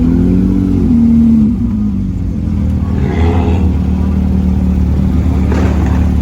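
Car engine revved once, its pitch rising and falling over about a second and a half, then running on with a steady low drone.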